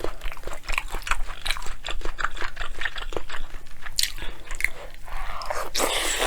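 Close-miked chewing and mouth smacking: a person eating a mouthful of bibimbap, with many quick wet clicks, and a louder rushing sound near the end.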